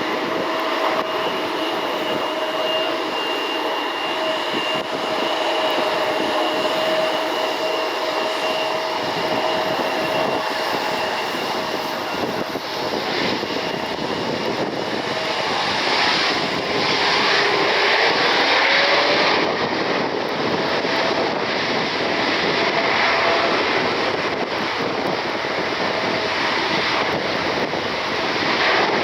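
Jet aircraft engines running: a steady roar with thin whining tones, swelling louder a little past halfway through.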